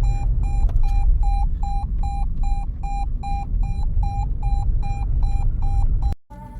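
A car's electronic warning chime beeping steadily, about two and a half short beeps a second, over the low rumble of the vehicle. The beeping cuts off sharply near the end.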